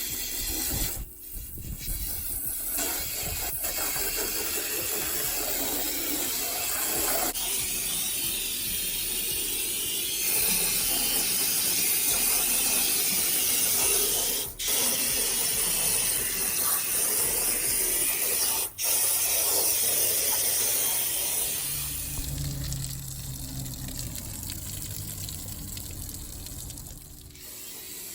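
Water spraying from a hose in a steady hiss, broken by two brief gaps, then turning softer and duller near the end.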